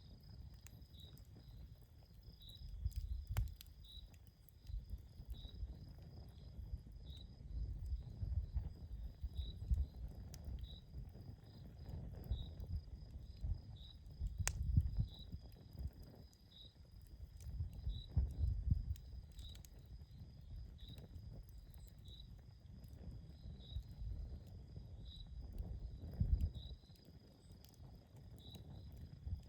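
Campfire crackling outdoors: a few sharp pops and snaps over a low rumble that swells and fades. A cricket chirps steadily about once a second, over a thin, steady high insect drone.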